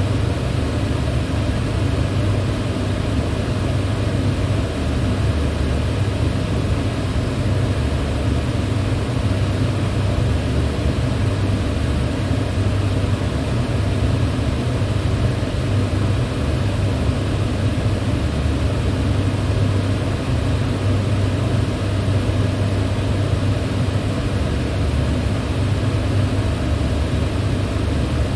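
Electric fan running steadily: a constant deep hum with a whooshing rush of air over it.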